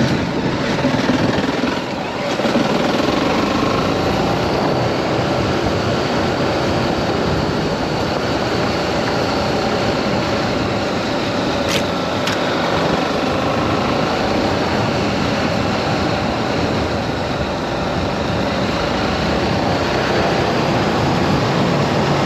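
BMW G310GS single-cylinder engine running under load as the motorcycle climbs a steep lane. Its level dips briefly about two seconds in, and there are two sharp clicks near the middle.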